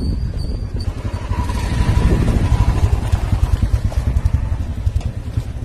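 A motorcycle engine running with a rapid low pulsing that grows louder about two seconds in.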